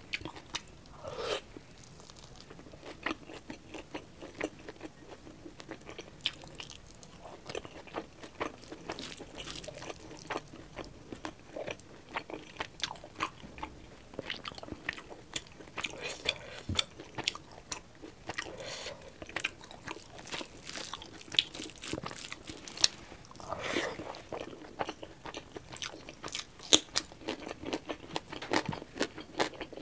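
Close-miked chewing and biting of pork curry and rice, with many irregular crunches and wet mouth clicks.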